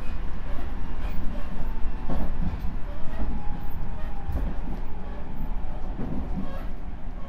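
Railway noise at a station platform: a steady low rumble with scattered clicks and knocks, and a faint steady hum above it.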